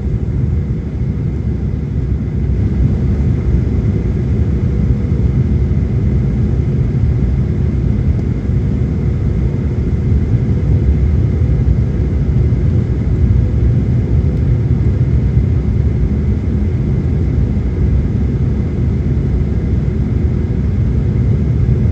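Steady cabin rumble of a Boeing 737-900ER's CFM56-7B jet engines and rushing air, with faint steady whine tones on top; it grows slightly louder about two seconds in.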